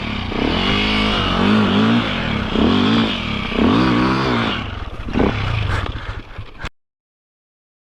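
Dirt bike engine revving up and down repeatedly, rising and falling in pitch about four or five times, with some rattle and scraping. It cuts off suddenly near the end.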